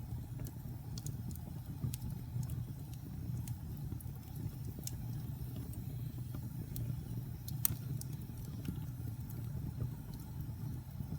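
Wood fire burning in a fireplace: a steady low rumble with scattered sharp crackles and pops from the logs, the loudest pop about two-thirds of the way in.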